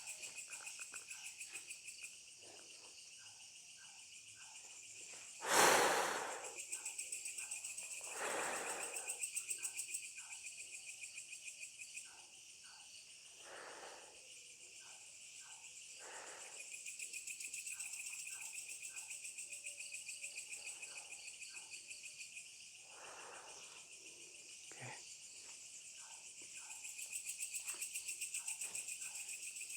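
Night insect chorus: a steady, shrill, rapidly pulsing trill in two high pitch bands. Several short rushes of noise cut across it, the loudest about six seconds in, and there is one sharp click later on.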